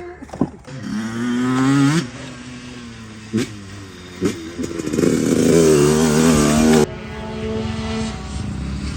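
Dirt bike engine revved up twice, the pitch climbing each time and then dropping off sharply, with steadier low running and a couple of knocks in between.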